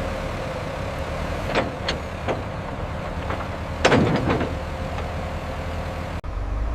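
Heavy construction machine's diesel engine running steadily, with several sharp knocks about one and a half to four seconds in, the loudest near four seconds.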